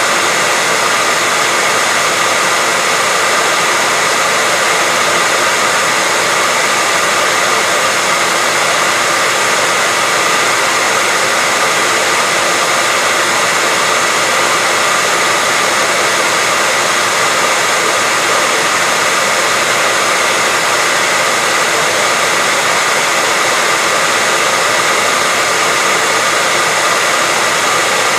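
Hair dryer running steadily: an even, unchanging whoosh of blown air with a faint steady whine from the motor.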